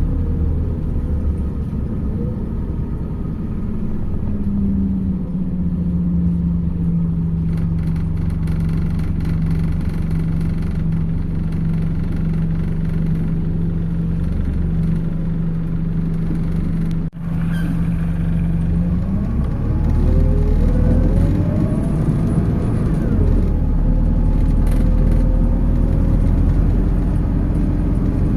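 MAZ 206 city bus heard on board: the engine runs with a steady low hum and rumble, then about two-thirds of the way through it rises in pitch as the bus accelerates. There is a brief dropout in the sound shortly before the rise.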